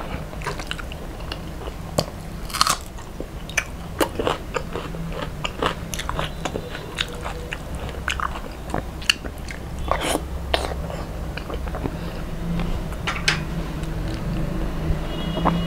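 Close-miked eating: wet chewing and mouth sounds with many sharp crunchy clicks as a person eats handfuls of rice mixed with fish curry and fried fish, mixing the rice with his fingers between bites.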